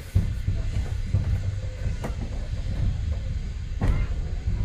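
Train running on rails: a steady low rumble, with two sharp clanks about two seconds and four seconds in.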